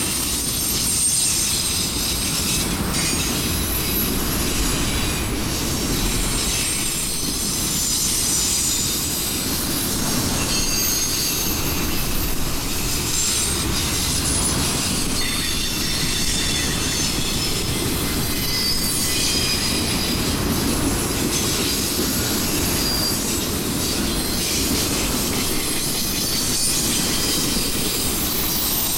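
Freight train cars rolling steadily past, their steel wheels squealing and screeching against the rails in shifting high-pitched tones over a continuous rumble.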